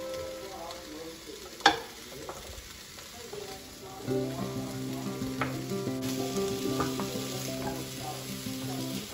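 Diced butternut squash sizzling in a stainless steel sauté pan as it is stirred with a wooden spoon, with one sharp knock of the spoon against the pan about one and a half seconds in and a few lighter knocks later.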